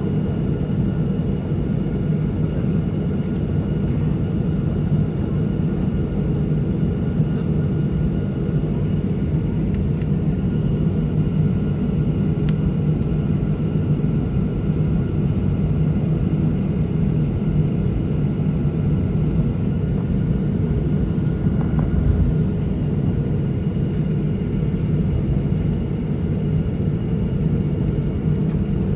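Airliner engine noise heard inside the passenger cabin: a steady, loud rumble with a faint constant whine above it.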